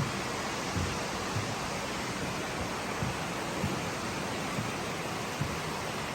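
Steady rush of moving water in an indoor koi pond house, from its pond filtration and water flow, with soft low thumps every half second to a second.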